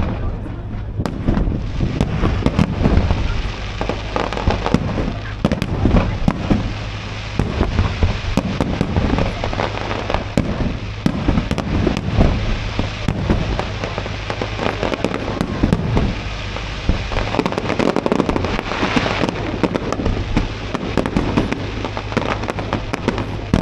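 Fireworks display: a dense, continuous run of bangs and crackles from shells bursting one after another.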